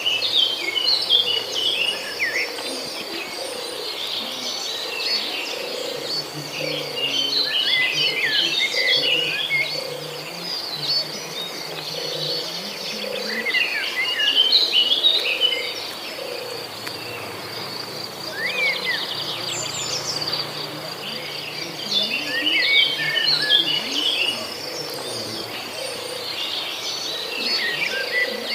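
A songbird singing in repeated bursts of quick chirping notes, a phrase every few seconds, over a steady high-pitched insect trill.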